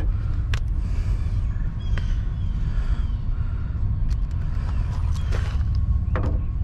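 A steady low rumble throughout, with a few light clicks and taps of a screw being put back in by hand.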